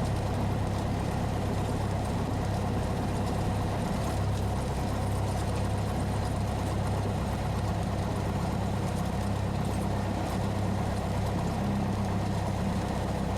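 Cessna 172SP's four-cylinder Lycoming IO-360 engine idling steadily as a low, even drone in the cockpit while the plane taxis to the ramp after landing.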